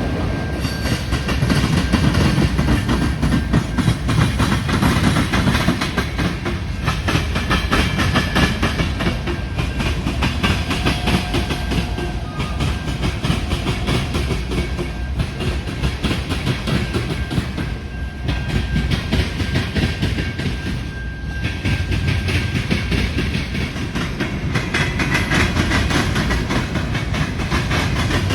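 A train rolling past, its wheels clicking rapidly and steadily over the rail joints with a heavy rumble underneath.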